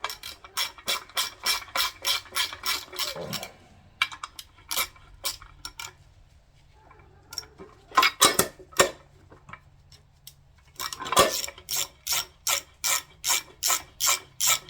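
Small micro ratchet's pawl clicking in quick regular runs, about three clicks a second, as bolts are run down. There is a pause of a few seconds in the middle, broken by a few single clicks.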